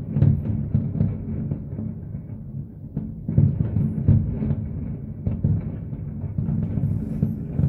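Fireworks display heard from a distance: a dense, continuous barrage of deep booms from shells bursting, with a few louder bangs near the start and about three to four seconds in.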